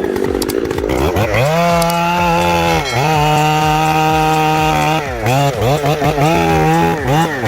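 Gas chainsaw engine revving up and held at high revs, dipping briefly once. Near the end the throttle is blipped up and down several times in quick succession.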